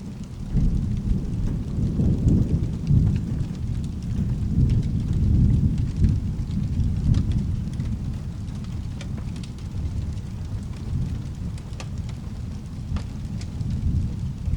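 Rolling thunder rumbling in about half a second in, loudest for the first several seconds and then easing off, over steady rain. Scattered sharp crackles from a fireplace.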